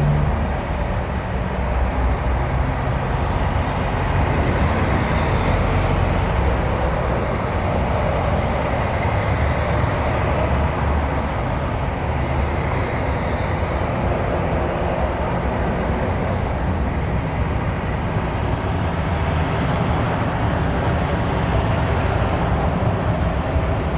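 Heavy trucks running: a steady rumble of engines and road noise with no clear breaks.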